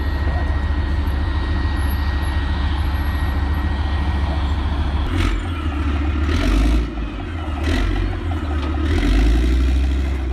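Heavy off-road truck engine running steadily, then revving in uneven surges during the second half as the driver works the throttle over rough ground.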